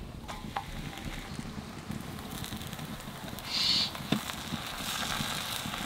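Paratha and egg mixture sizzling on a hot tawa: a steady sizzle, with a brief louder hiss about three and a half seconds in and a few light clicks of a metal spoon on the pan.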